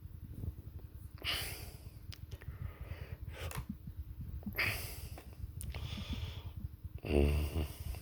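A person breathing heavily, close to the microphone: four separate noisy breaths or sniffs, the last with a short voiced hum, over a low rumble.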